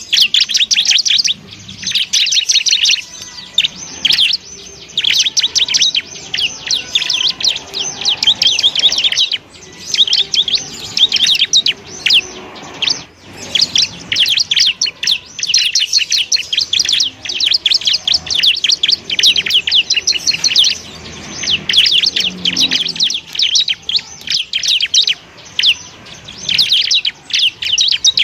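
Bar-winged prinia (ciblek) singing a fast chattering song of rapid, high notes in bursts of a few seconds, separated by short pauses.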